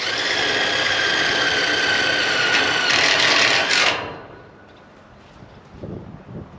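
Power drill driving a fastener for about four seconds, its motor whine sagging a little in pitch under load, then stopping.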